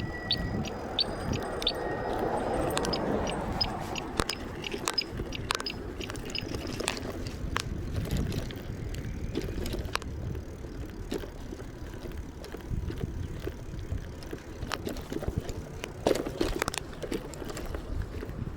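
Riding a bicycle: steady wind and tyre rumble with frequent light clicks and rattles from the bike, and a swell of rushing noise in the first few seconds.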